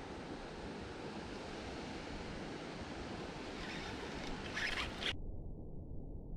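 Steady rushing noise of stormy wind and rain, with a few brief crackles about four and a half seconds in. Just after that it suddenly turns dull, only the low rumble going on.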